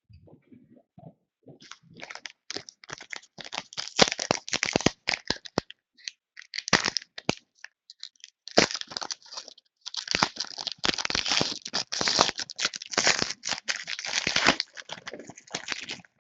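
A trading-card pack wrapper being torn open and crinkled by hand in irregular crackling bursts, pausing briefly twice.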